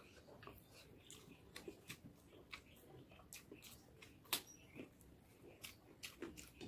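Faint, close-up eating sounds of someone eating rice with her fingers: chewing with many small wet mouth clicks and lip smacks, and one sharper smack about four seconds in as a handful goes into the mouth.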